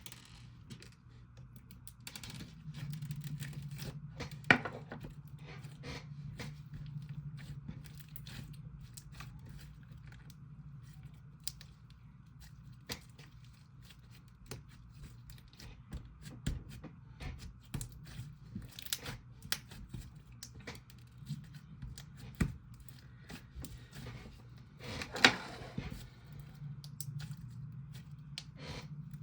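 Slime being squished and stretched by hand, with many small clicks and pops, and two louder crackles, about four seconds in and near the end.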